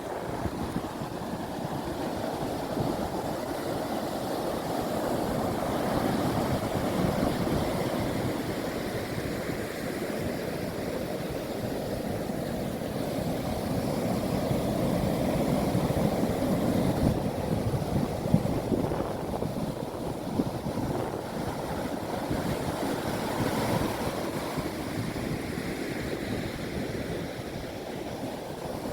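Ocean surf breaking on the shore: a steady rushing wash that swells and eases, with some wind on the microphone.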